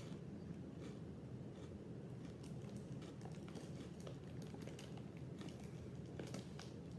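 Combos stuffed snack being chewed: faint, irregular crunching clicks over a steady low hum.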